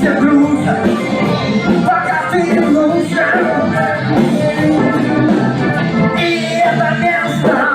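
A band playing a song with vocals, in a rock style with guitar.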